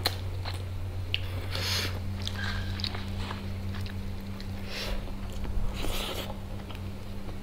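Close-miked eating sounds: biting and chewing mouthfuls of chicken biryani eaten by hand, with small wet mouth clicks throughout. A steady low hum runs underneath.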